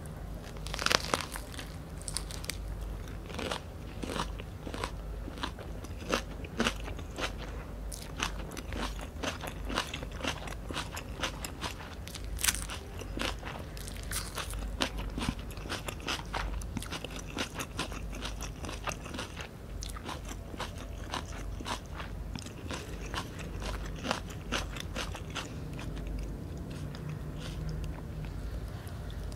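Biting and chewing of Vietnamese fresh spring rolls, close-miked: the rice paper wrapper and crisp lettuce crunch and crackle in a steady stream of small clicks, with louder bites about a second in and again near twelve seconds.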